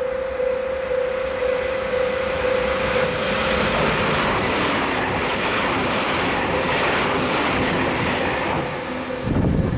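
A JR Central 383 series six-car electric express train running through a station at speed: a loud rush of wheel and running noise builds from about three and a half seconds in and holds as the cars go by, drowning out a steady pulsing tone heard before it. Near the end a short low buffeting hits the microphone as the train passes.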